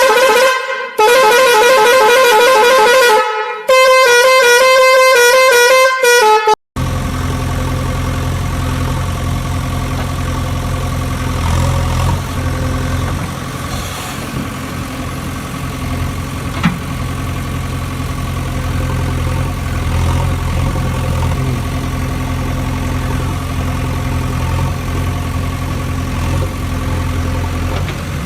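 A warbling musical vehicle horn plays a changing tune for about the first seven seconds, then stops abruptly and a steady low engine idling hum takes over.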